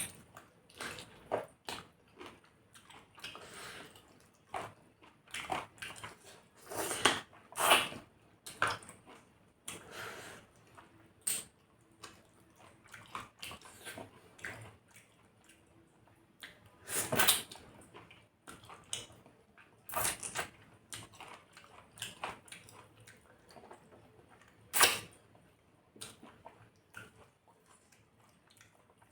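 Close-up eating sounds of chicken curry and rice: chewing, wet squelches and lip smacks, coming as irregular clicks with several louder smacks.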